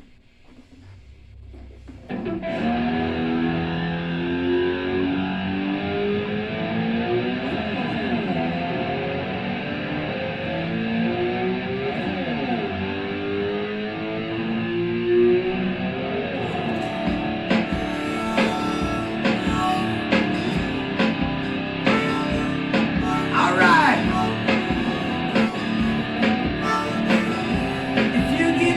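Electric guitar starts a rock intro riff about two seconds in, with several sweeping slides in pitch. Drums join about seventeen seconds in.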